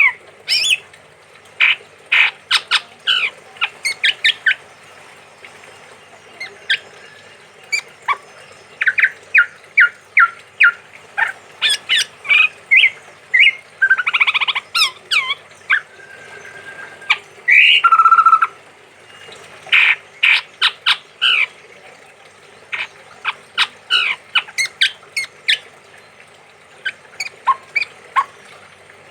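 Male chestnut-rumped babbler (tepus tunggir merah) calling vigorously: quick series of short, sharp notes, broken about halfway through by two longer harsh, rattling calls.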